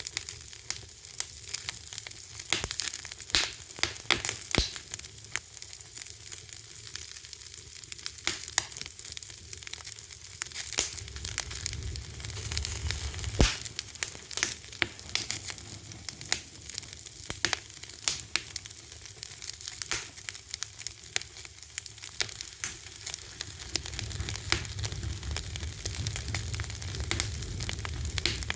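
Fire crackling: irregular sharp pops and snaps over a steady hiss, with one louder pop about halfway through. A low rumble of the flames swells up twice, around the middle and near the end.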